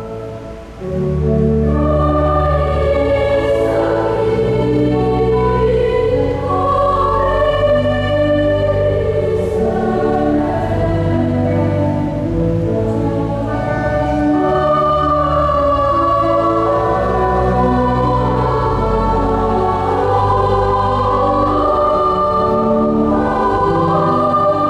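A choir singing over sustained pipe organ chords with low held pedal notes. After a short dip in the first second, the music comes back in at full strength and carries on.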